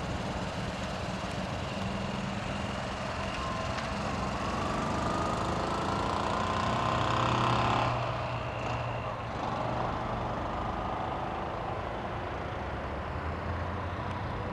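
1955 BMW Isetta's small single-cylinder four-stroke engine pulling away, its pitch rising and getting louder for several seconds. About eight seconds in the pitch drops suddenly, and the engine goes on quieter and lower as the car drives off.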